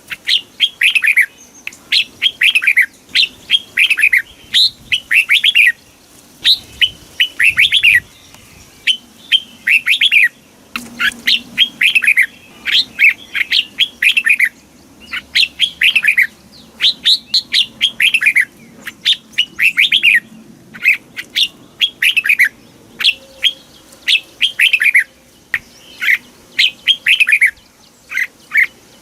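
Red-whiskered bulbul singing: a steady run of short phrases, each two to four quick falling notes, repeated with brief pauses.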